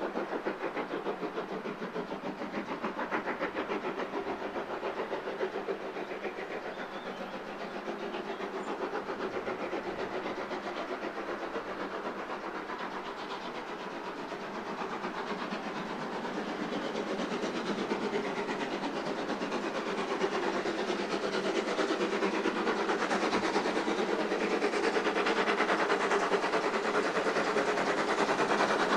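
Train running on the rails, a steady fast clatter that grows louder through the second half.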